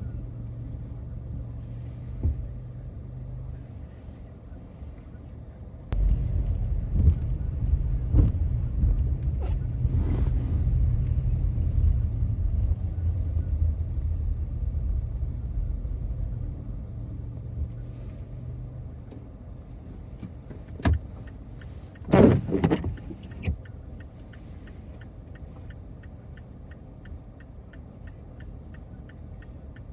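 Car driving on snowy city streets: low engine and road rumble that swells suddenly about six seconds in and eases off over the next dozen seconds. A few brief, sharp louder sounds come about two-thirds of the way through. These are followed by a steady, regular ticking from the turn-signal indicator.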